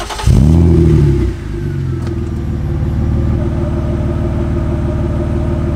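BMW E36 328i's 2.8-litre straight-six starting up through its aftermarket muffler-shop exhaust. It catches at once and flares loudly, the revs falling back over about a second, then settles into a steady idle.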